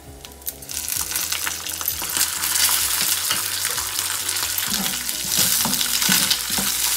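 Fresh curry leaves sizzling and spattering as they hit hot mustard oil in a kadai during a tadka. The sizzle swells up loudly within the first second, and near the end a steel ladle stirs and scrapes in the pan.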